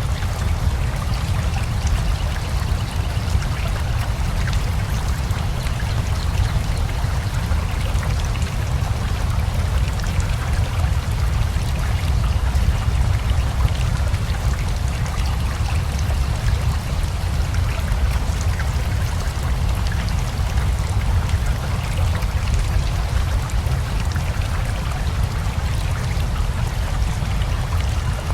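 Steady rain together with a flowing river: an unbroken rush of water with a deep low rumble and a fine patter of drops over it.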